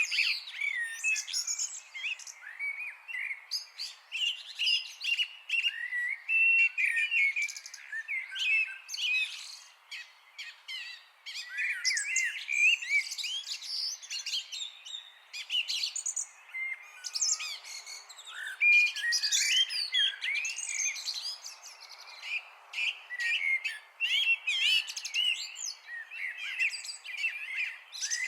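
Several songbirds singing and chirping together in a dense, overlapping chorus of quick chirps, trills and whistled notes, over a faint background hiss.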